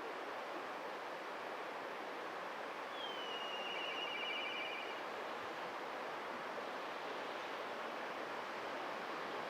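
Black kite giving one whistled call about three seconds in: a high note that slides down into a quavering trill lasting about two seconds. A steady hiss sits underneath.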